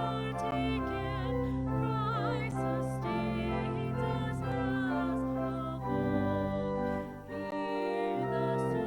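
Church music: a singing voice with wide vibrato over sustained accompanying chords, with a short break between phrases about seven seconds in.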